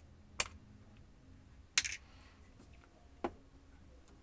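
Small metal laptop screws clicking onto a magnetic pickup tool as they are lifted out of the case: three sharp clicks, each about a second and a half apart.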